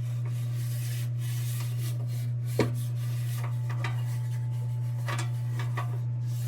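Tin lantern parts handled on the bench, rubbing and clinking lightly, with one sharper click a little before halfway. A steady low hum runs underneath.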